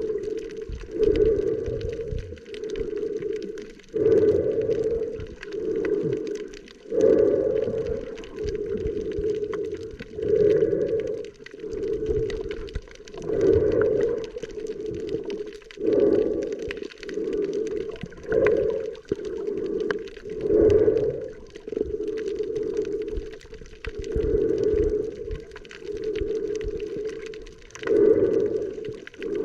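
Muffled underwater water sound, surging and sloshing in uneven pulses about once a second, as heard by a camera held in the sea.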